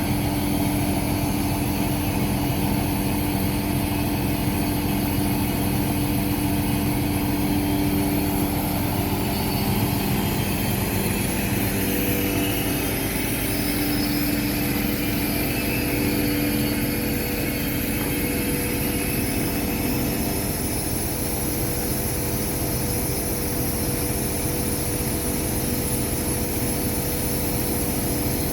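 A motor cruiser's inboard engine running steadily, its note holding even throughout.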